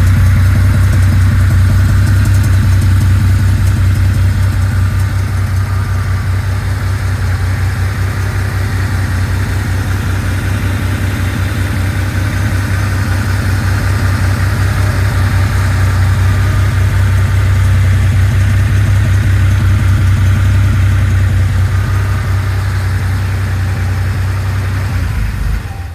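1988 Porsche 911 Turbo's air-cooled turbocharged flat-six idling steadily after a cold start. The sound cuts off suddenly near the end.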